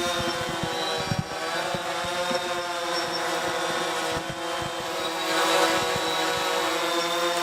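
DJI Phantom 3 quadcopter's propellers and motors whirring steadily at a close distance, several rotors at slightly different speeds, with light knocks and rumbles underneath.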